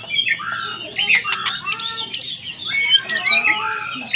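White-rumped shama (murai batu) singing continuously in full voice: a fast, varied stream of rich whistles with quick sharp upward sweeps, a steady song of the kind kept to stimulate other birds.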